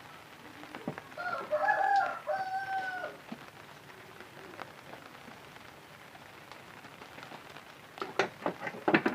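A rooster crowing once, a call of a second or two with a long held last note, over a steady background hiss. Near the end comes a quick run of sharp taps or knocks.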